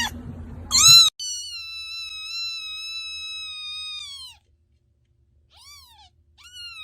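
A cat meowing: a short meow about a second in, then one long, drawn-out meow that drops in pitch as it ends, and two short, fainter meows near the end.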